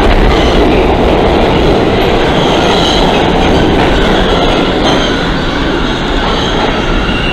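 New York City subway train moving through the station: a loud, steady rumble of wheels on rail with a thin high squeal of steel wheels, easing slightly toward the end.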